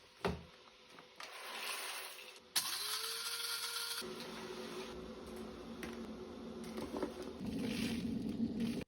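A small electric motor appliance switching on, its whine rising briefly to a steady pitch under a hiss, then running with a steady whir that grows deeper and louder near the end.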